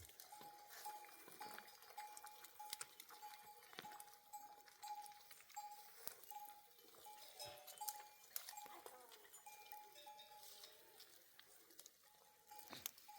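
Bells on a grazing flock of sheep clinking faintly, with scattered light clicks. Through it runs a steady series of short, even notes, repeating about three times a second.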